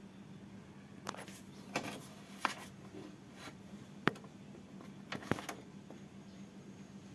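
About five sharp clicks and knocks with short scrapes, from hand work handling parts or tools, over a steady low hum.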